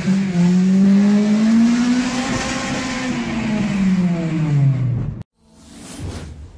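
Car engine revving hard, its pitch climbing slowly, held high, then falling away before cutting off abruptly about five seconds in. A short whoosh sound effect follows near the end.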